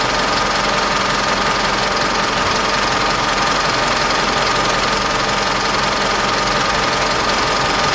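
2010 Nissan Diesel Condor's 2,990 cc intercooled turbo diesel engine idling steadily, with a steady high whine running through it.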